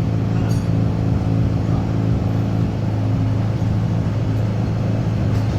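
Turbocharged 13B rotary engine in a Mk2 Ford Escort running steadily through its newly installed exhaust, a low even note with no revving.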